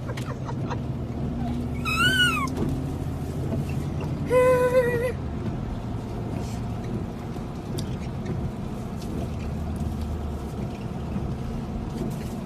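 Two short calls from a young hyacinth macaw: one about two seconds in that rises and falls, and a flatter, slightly wavering one a couple of seconds later. A steady low hum runs underneath.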